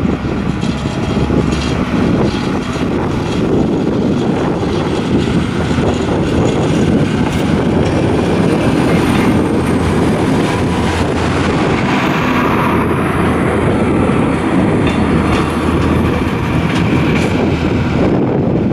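The Alerce railcar running past: a loud, steady rumble of engine and wheels, with repeated clicks of the wheels over the rail joints.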